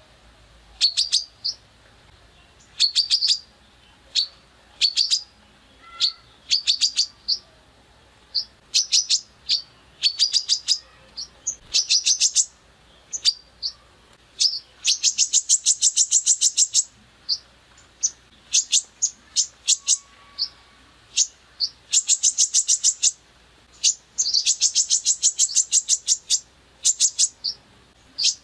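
Songbird song made of rough rapid-fire 'tembakan' phrases: bursts of quickly repeated sharp high notes, the longest running about two seconds, with short single notes and brief pauses between them.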